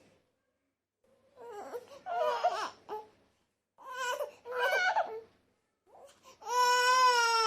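Crying voice: two short bouts of wavering, sobbing cries, then a long, high-pitched cry held near the end.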